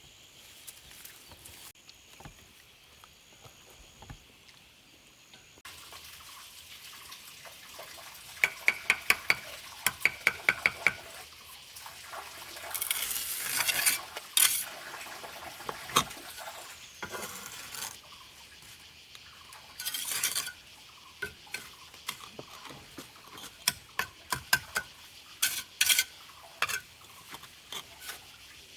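Metal tools scraping and clinking, with a quick run of about ten ringing taps between about eight and eleven seconds in and short bursts of scraping.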